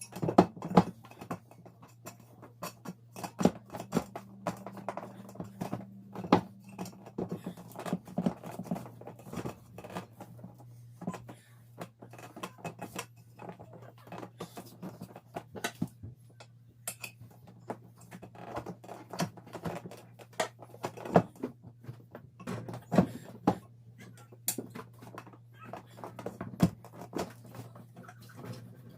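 Irregular clicks, taps and knocks of tools and parts being handled during tyre-changing work, over a steady low hum.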